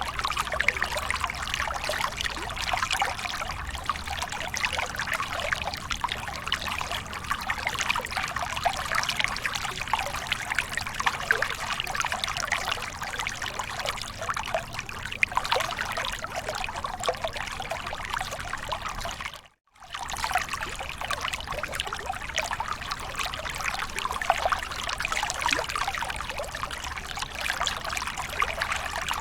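Water from a small waterfall splashing and trickling steadily, a dense patter of small splashes. It cuts out for a split second about two-thirds of the way through.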